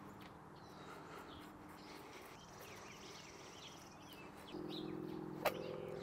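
Faint birds chirping in the background. About four and a half seconds in, a steady low hum comes in, and a single sharp click sounds near the end.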